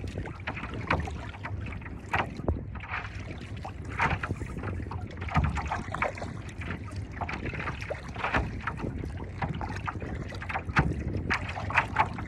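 Wind rumbling on the microphone, with choppy seawater slapping and splashing in short irregular bursts against a paddleboard.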